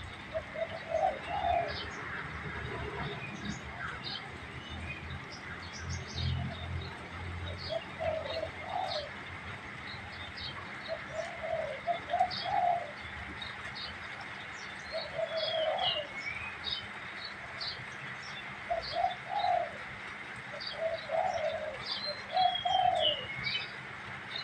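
Male spotted dove cooing: a low phrase of about a second, repeated every few seconds, with small birds chirping high and quick in the background.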